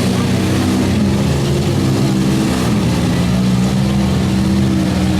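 Engines of stock minivans, pickups and SUVs running and revving in a demolition derby heat, a steady loud drone with slight rises and falls in pitch.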